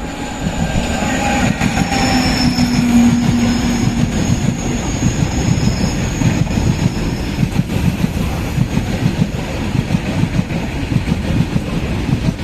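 Train running on the rails, a loud rumble and clatter of wheels that swells over the first couple of seconds. A thin, high wheel squeal runs through the first half, and the sound cuts off suddenly at the end.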